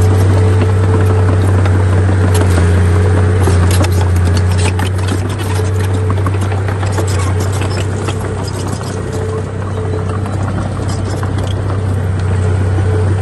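Heavy diesel engine of earthmoving machinery running steadily under load, with scattered clanks and rattles through the first half.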